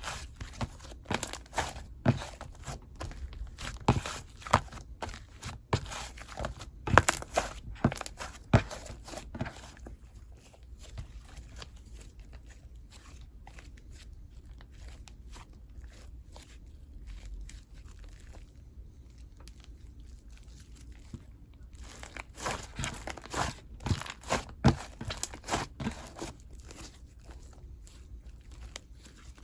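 Soft, fluffy slime being squeezed and pulled by hand, giving runs of sticky pops and crackles. The popping eases off for about ten seconds in the middle, then picks up again.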